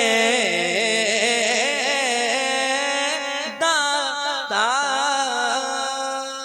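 A man's voice singing a naat without words being clearly spoken, drawing out long, ornamented notes that waver and slide in pitch.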